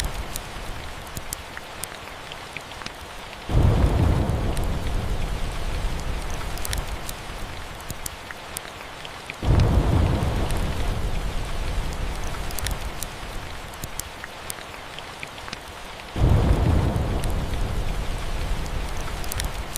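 Steady rain with three rolls of thunder, each starting suddenly and fading over several seconds, and scattered sharp crackles from a fireplace.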